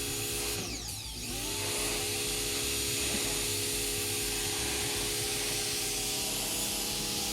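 A small motor running with a steady drone; its pitch dips briefly about a second in and then climbs back and holds steady.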